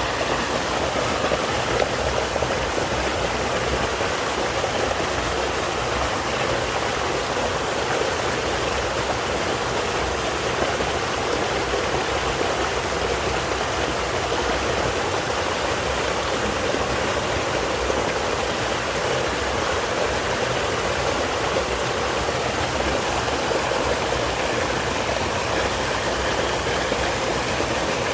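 Small two-tier double waterfall in a mountain stream, water pouring and rushing steadily and evenly.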